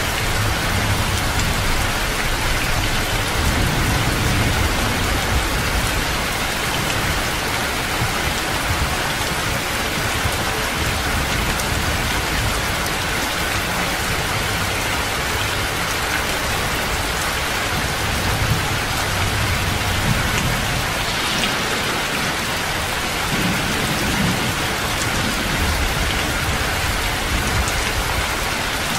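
Heavy rain pouring steadily on a roof and spilling off the eaves, with a few low rumbles of thunder.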